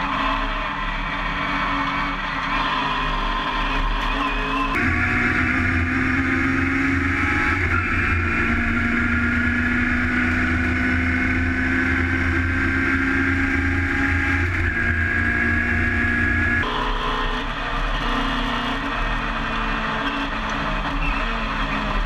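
Mini race car's tuned A-series four-cylinder engine running hard, heard from inside the cabin. About five seconds in the sound switches to a second in-car recording where the engine pitch climbs slowly and steadily, and it switches back about seventeen seconds in.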